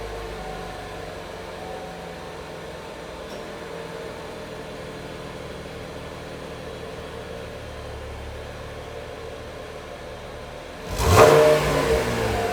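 Chevrolet Camaro with the NPP dual-mode exhaust idling steadily, then revved hard by a quick throttle blip about eleven seconds in, the note rising sharply and falling back toward idle.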